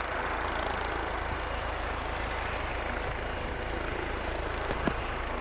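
Helicopter running steadily, a continuous rotor and engine noise with a strong low rumble.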